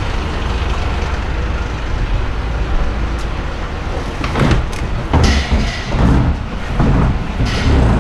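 Garbage truck engine idling steadily. From about halfway in, a run of loud rumbles and knocks: plastic wheelie bins being rolled out on their rubber wheels.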